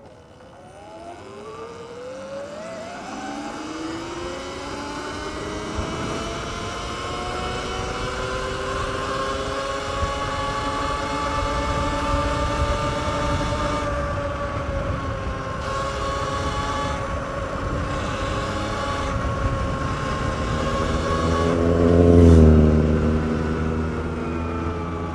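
Sur-Ron X electric dirt bike's motor whining, rising in pitch as it pulls away over the first few seconds, then holding a steady high whine at speed over rising wind and road rush. About 22 seconds in, a loud low rush swells briefly and the whine dips a little.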